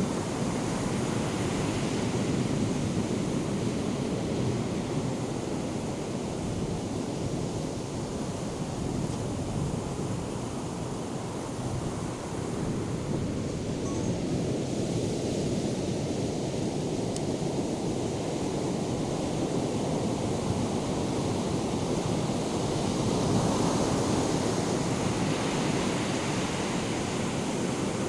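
Ocean surf from a hurricane swell breaking and washing in a steady rush, growing louder near the end.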